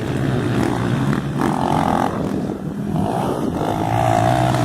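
Motocross motorcycle engines running on a dirt track. A steady low drone carries a higher engine whine that rises in twice, once about a second and a half in and again near the end, as a bike revs past.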